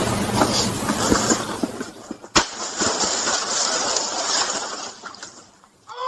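Steady noisy hiss with scattered knocks and one sharp crack about two and a half seconds in; it fades away near the end.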